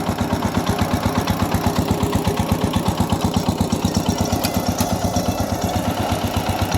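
Micro tractor's single-cylinder diesel engine running steadily, a rapid, even putter of about ten beats a second.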